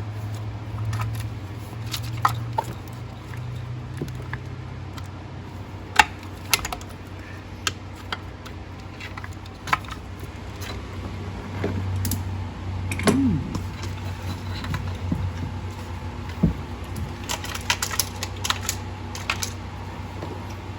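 Metal hand tools and engine parts clicking and clanking at irregular intervals, with a brief squeak about thirteen seconds in, over a steady low hum.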